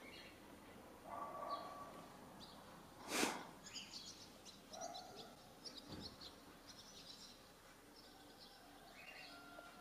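Faint birds chirping in short scattered calls, with a brief louder rush of noise about three seconds in and a low soft thump about six seconds in.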